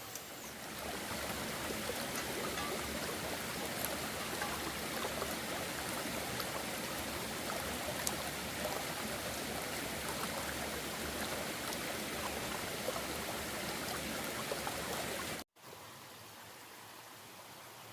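Steady rush of running water, like a stream. It cuts off abruptly near the end and a quieter hiss follows.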